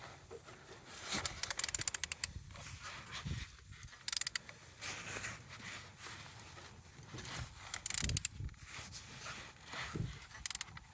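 A ratchet wrench clicking in quick bursts, with pauses between, as the L4V14 engine is turned over by hand; the engine turns freely and shows compression.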